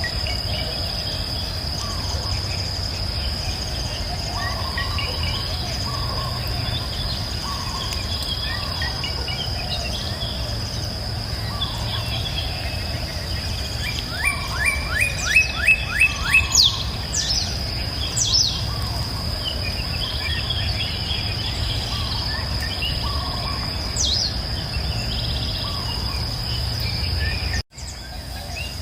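Several birds singing and calling over a steady high insect drone and a low rush of water. A little past halfway one bird gives a louder run of quick falling notes, about three a second. Near the end the whole sound cuts out for an instant.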